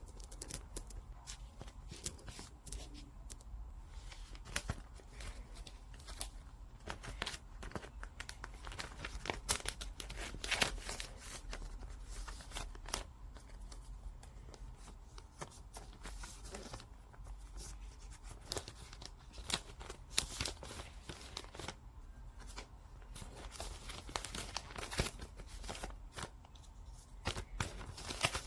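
Irregular handling noises: crinkling, rustling and many small clicks and ticks, as of paper or plastic being worked by hand.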